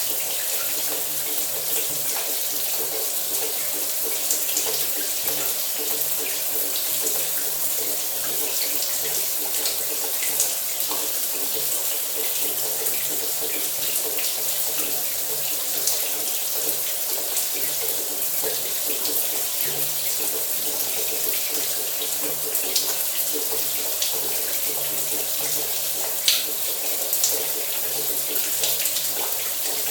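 Shower water running steadily: a continuous hiss of spray falling, with small splashes and drips scattered through it.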